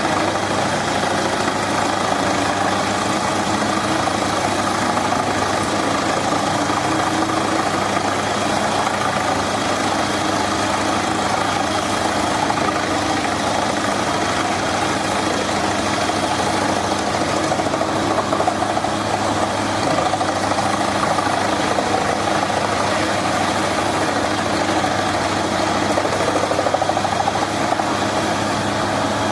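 A heavy machine's engine running steadily, an unbroken mechanical drone with no change in speed.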